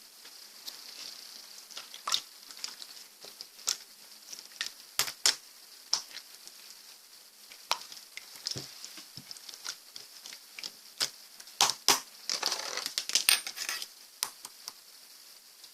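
Slime being squeezed, poked and stretched by hand, giving irregular sticky clicks and pops, with a longer run of crackling near the end.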